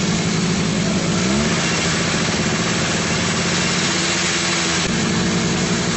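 An engine running steadily, its pitch rising briefly about a second in and its sound shifting again near five seconds.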